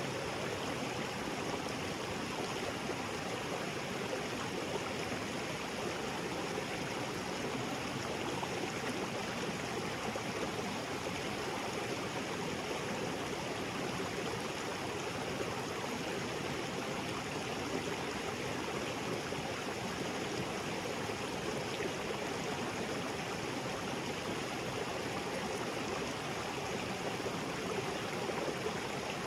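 Small waterfall and creek water rushing and splashing over rocks.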